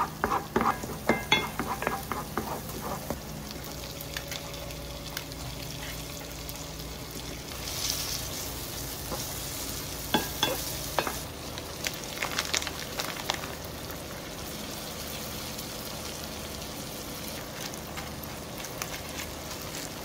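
Food frying and sizzling in a pan while it is stirred, with a utensil clicking against the pan in the first few seconds and again around ten seconds in.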